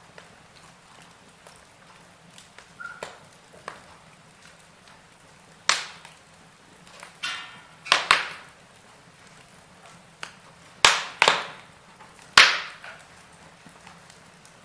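Wood fire crackling in a fireplace: irregular sharp pops and snaps over a faint steady hiss, with the loudest cracks coming in the second half.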